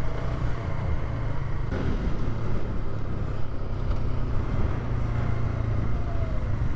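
Polaris ATV's engine running at a steady speed while the quad rides along, a constant low hum with a rushing noise over it.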